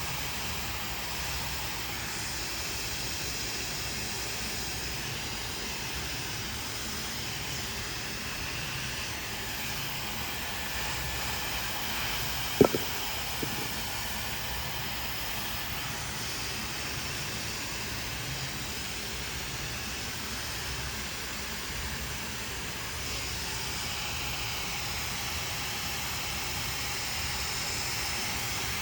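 Handheld hair dryer blowing steadily during a blow-dry. About halfway through there is a sharp click, followed by a fainter one.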